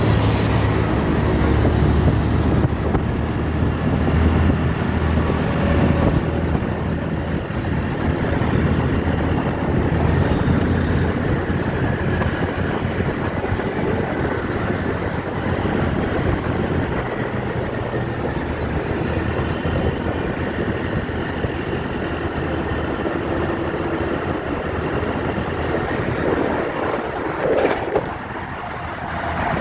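Steady rumble of vehicle noise, heaviest in the low end, with a brief drop in level near the end.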